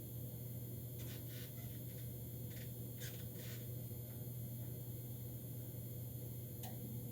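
A Goodman gas furnace's inducer fan motor running with a steady low hum during the startup sequence, before the burners light, with a few faint ticks.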